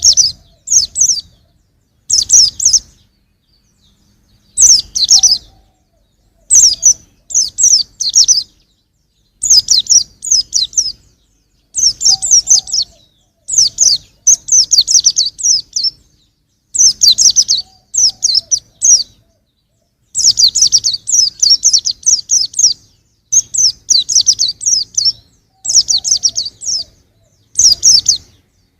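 Young pleci (white-eye) singing in short bursts of rapid, high twittering chirps, each under a second or so long and repeated every one to two seconds with brief pauses between.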